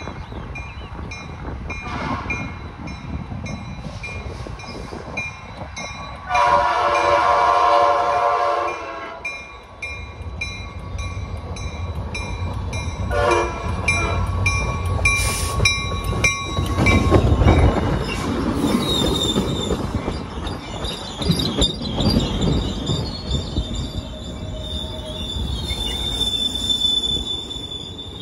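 Trinity Railway Express diesel locomotive sounding its horn in one long blast of about two and a half seconds, then a short toot a few seconds later. The commuter train then rumbles past close by, with a high steady wheel squeal in the last third.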